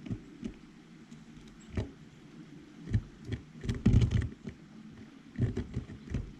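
Birds pecking and hopping on a feeder close to the microphone: irregular taps and thumps, bunched most thickly about four seconds in.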